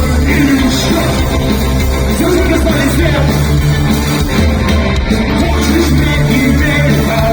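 Live punk rock band playing loud, with a voice singing over the band.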